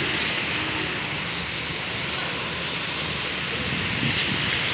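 Heavy rain and strong wind in trees: a steady, even hiss.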